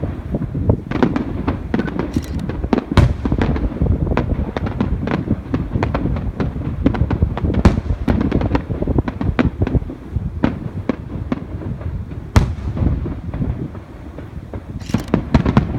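Fireworks display: a dense, continuous barrage of aerial shells bursting and booming, with many crackling reports overlapping, briefly thinning out shortly before a fresh flurry near the end.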